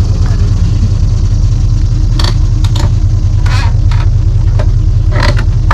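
Engine idling with a steady low rumble, with several sharp knocks and clanks over the second half.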